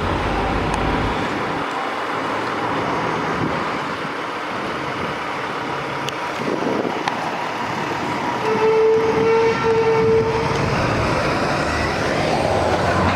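Trucks idling and moving in traffic, with a steady rumble throughout. Past the middle, a horn sounds one steady note for about two seconds, with a tiny break in it.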